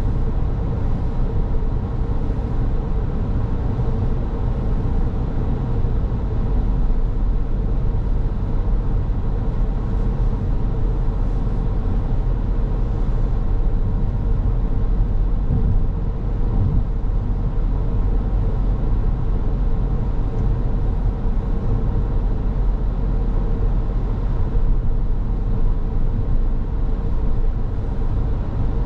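Steady driving noise of a car on the move: a low rumble of tyres and engine with a constant hum.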